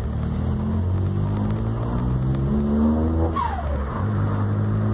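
Turbocharged three-cylinder engine of a VW up! TSI revving up under acceleration, then a short falling turbo whoosh (flutter) as the throttle is lifted for a gearchange, after which the engine runs on at lower revs.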